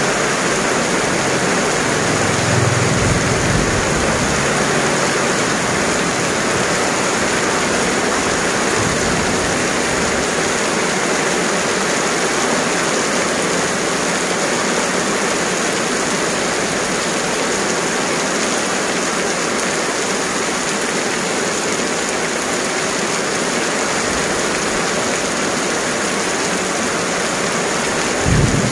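Heavy tropical rain pouring steadily onto an asphalt road and paved sidewalk: a dense, even hiss. Brief low rumbles come about three seconds in and again right at the end.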